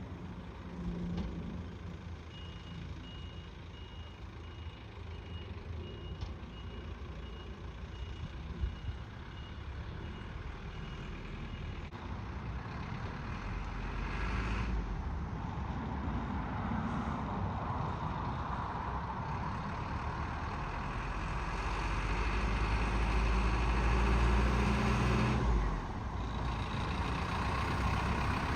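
Isuzu 4x4 fire truck with its reversing alarm beeping about twice a second for roughly ten seconds. Its diesel engine then runs louder and higher as the truck gets under way, dropping abruptly for a moment near the end before picking up again.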